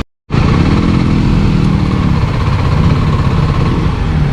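Kawasaki Ninja motorcycle engine running at low road speed, its pitch drifting slightly up and down, over a rush of wind noise. A split-second gap of silence opens the sound.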